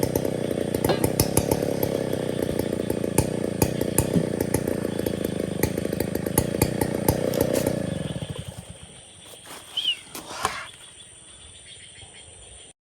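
STIHL 070 chainsaw running at high speed, then winding down and dying out about eight seconds in. A couple of brief, faint sounds follow around ten seconds in, and the sound cuts off abruptly just before the end.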